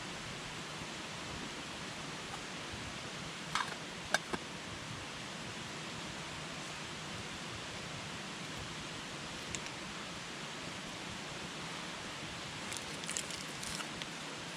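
Wood campfire burning with a steady hiss and occasional sharp crackles: a few pops about four seconds in, one near ten seconds, and a small cluster near the end.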